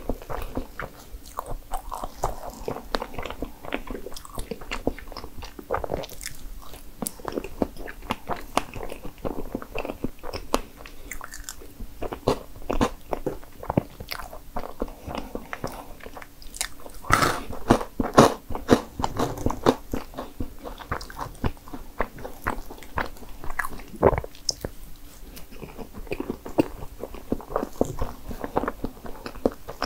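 Close-miked chewing of strawberry crepe cake: soft, wet mouth clicks and smacks coming irregularly, with a louder run of clicks about seventeen to nineteen seconds in.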